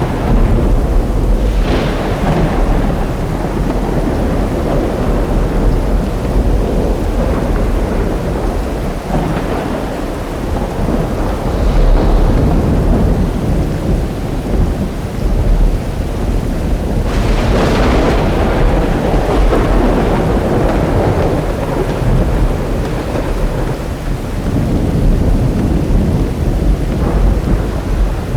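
Thunderstorm: steady rain under continuous rolling thunder, with sharper thunder claps about two seconds in and about seventeen seconds in, each trailing off into a long rumble.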